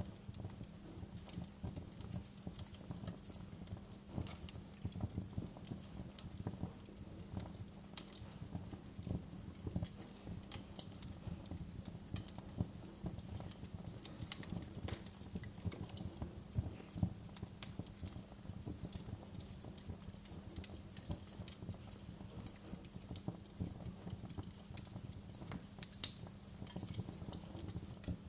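Wood fire crackling: irregular sharp pops and snaps over a low, steady rumble of the burning fire.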